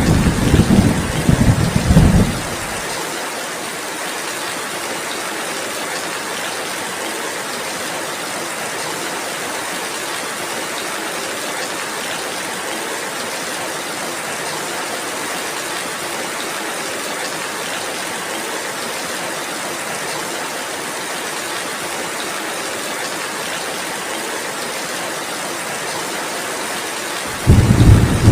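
Steady rainfall, an even hiss. A loud low rumble of thunder fills the first two seconds or so and cuts off, and another rumble begins near the end.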